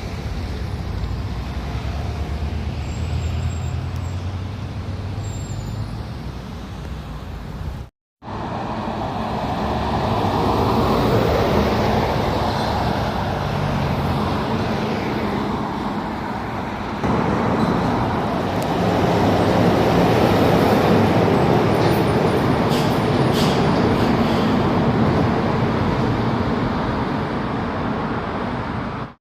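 Heavy trucks driving past on a road: engines running with tyre and traffic noise, in separate clips with a cut about eight seconds in and a sudden jump in loudness about seventeen seconds in.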